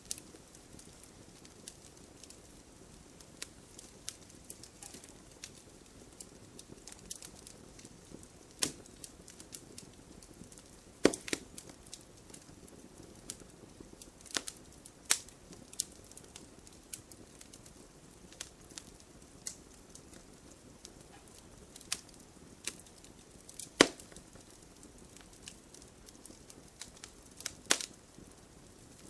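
Wood fire crackling and popping: a soft steady hiss with irregular sharp snaps, a few much louder pops scattered through.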